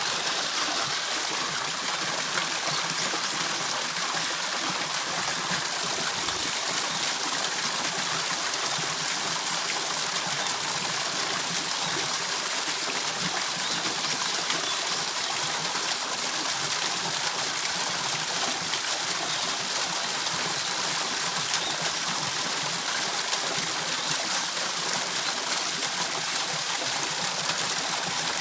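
Waterfall pouring steadily: an unbroken rush of falling water.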